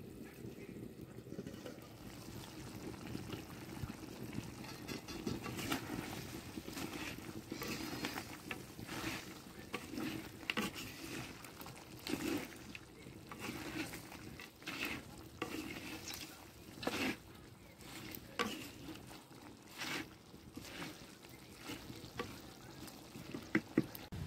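Chicken pieces frying in a clay pot over a wood fire, sizzling steadily while a utensil stirs them and scrapes the pot in repeated short strokes.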